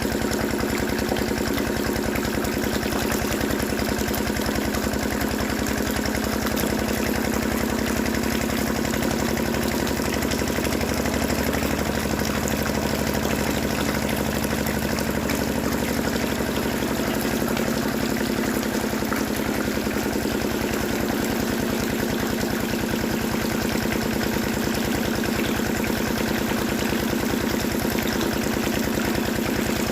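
Small motor of a homemade mini tractor water-pump model running steadily at an even speed, with a fast, regular rattle.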